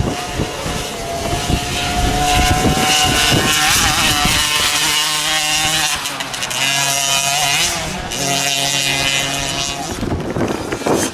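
Motocross bike engines running hard, their pitch climbing and dropping several times as the riders open the throttle and shift.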